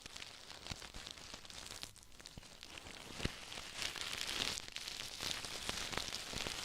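Ear-cleaning tools scraping and rubbing close to the microphone: a dense run of small crackles and scratches, with a sharper click about three seconds in.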